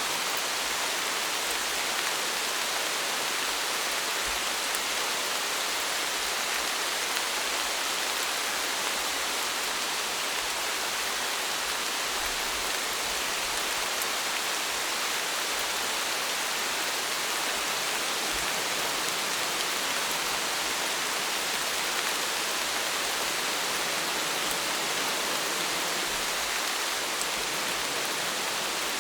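Steady rain, an even hiss of falling drops with no change in strength.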